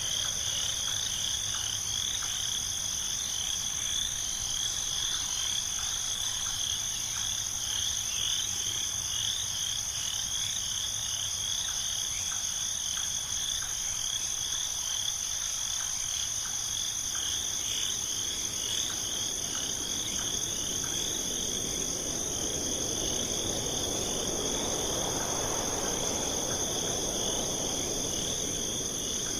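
Night chorus of insects and frogs: a steady high insect trill over a lower, rapidly pulsing call. A soft rushing sound swells up in the last several seconds.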